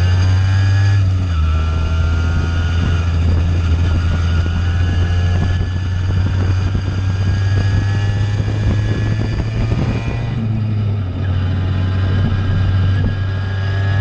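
Simson two-stroke moped engine with a JW 85G+ performance exhaust under way: the engine note rises, drops at a gear change about a second in, runs steadily, drops again near the ten-second mark, then climbs again near the end.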